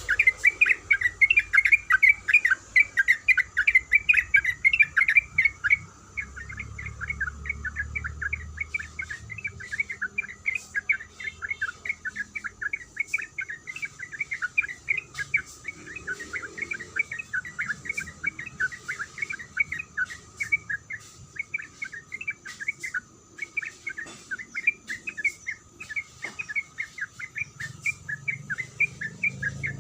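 Yellow-vented bulbul (trucukan) singing a long, continuous run of rapid chattering notes, several a second, without a break. The song is louder for the first six seconds, then carries on a little softer.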